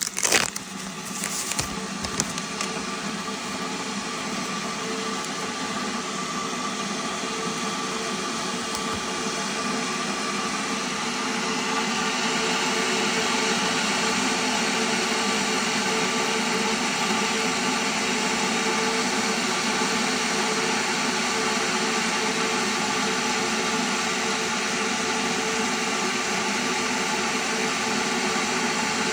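Jacob Jensen electric kettle heating water toward 75 °C: a steady rushing hiss that grows louder from about ten to twelve seconds in, then holds.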